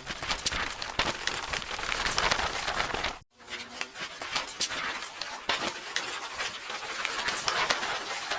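Paper pages of a book rustling and crackling in a dense run of small papery crackles, broken by a brief silence about three seconds in.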